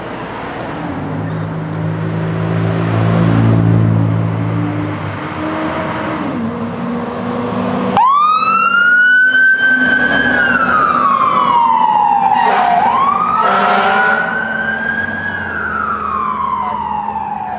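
A fire engine's engine running loudly for several seconds, then its siren cutting in suddenly about halfway through and wailing in slow rises and falls. Two short horn blasts sound over the wail near the three-quarter mark.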